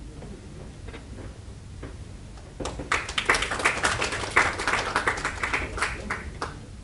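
Audience applauding: a spatter of hand claps starts about two and a half seconds in, and it thins out and dies away near the end.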